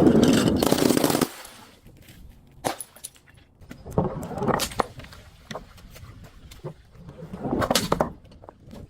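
Brittle objects being crushed: a loud, dense crackling crunch for about the first second, then scattered cracks and snaps with short bursts of crackle around the middle and again near the end.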